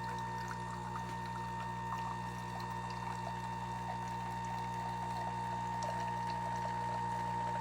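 Espresso machine running with a steady hum and scattered small ticks, with liquid pouring.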